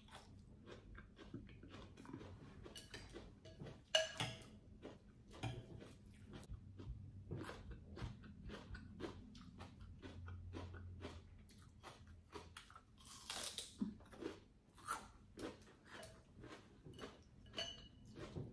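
A person eating close to the microphone: crunchy bites and chewing, a string of irregular small crunches with one louder crunch about four seconds in.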